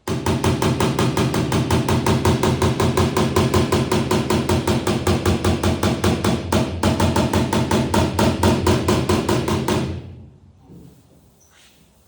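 Hand panel hammer beating steel body panel, a fast, even run of ringing metal blows, about six or seven a second, with a brief break a little past halfway; it stops about two seconds before the end.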